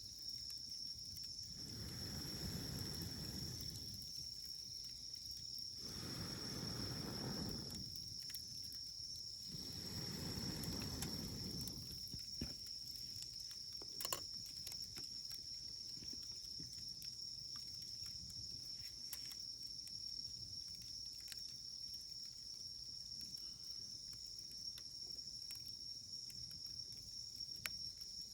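Wood fire crackling with scattered sharp pops, the loudest about halfway through, over a steady high insect trill held at one pitch. Three low rushing swells rise and fade in the first half.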